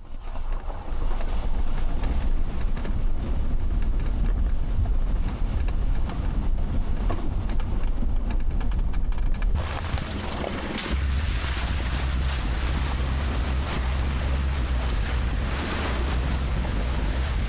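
Wind buffeting the microphone, a heavy low rumble under a hissing noise. The sound changes abruptly about ten seconds in.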